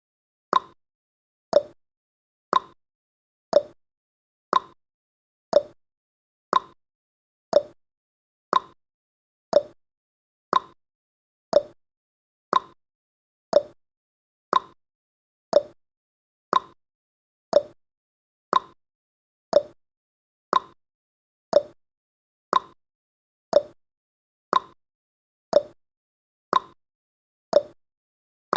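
Countdown timer's clock tick-tock sound effect, one tick each second, alternating between a higher and a lower tick, each short and dying away quickly.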